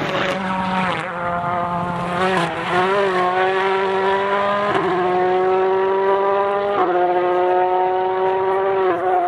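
Rally car engine on full throttle at high revs as the car passes, its pitch breaking and stepping every couple of seconds at gear changes.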